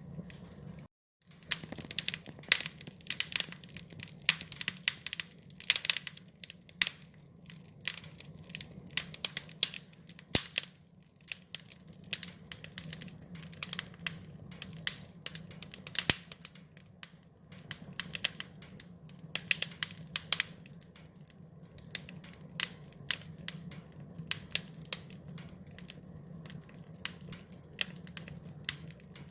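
Wood fire crackling: irregular sharp pops and snaps over a low steady rumble. The sound cuts out completely for a moment about a second in.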